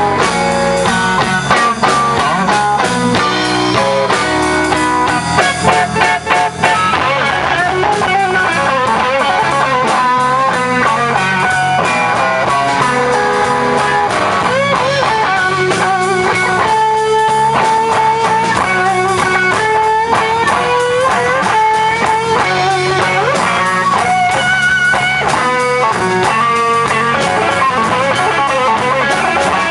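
Blues band playing a slow blues: an electric guitar takes the lead with bent notes over bass and rhythm.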